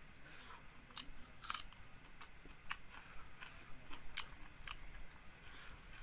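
A person chewing and eating a meal of rice and pork fry, with irregular wet clicks and smacks from the mouth and food.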